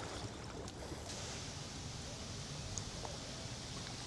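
Steady outdoor background noise of wind and moving floodwater, with a faint high hiss coming in about a second in.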